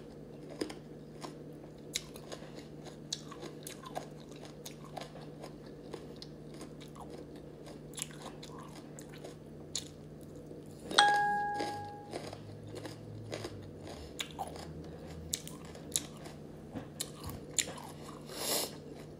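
Close-up mouth sounds of someone chewing and crunching raw fruit and vegetable pieces, with many small wet clicks. About eleven seconds in, a short ringing tone sounds and fades away over about a second, louder than the chewing.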